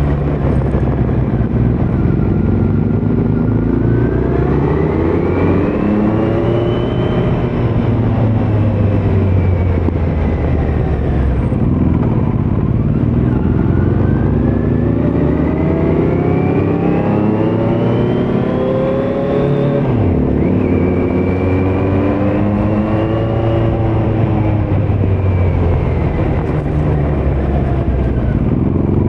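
Kawasaki Z900's inline-four engine through a Leo Vince muffler on stock headers with no dB killer, under way. The engine note rises with the throttle about four seconds in and falls back. It climbs again for several seconds from about thirteen seconds in, drops suddenly, rises briefly once more and then falls away.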